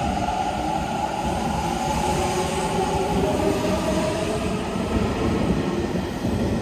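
Electric train running on the track: a steady rumble with a high whine that slowly falls in pitch.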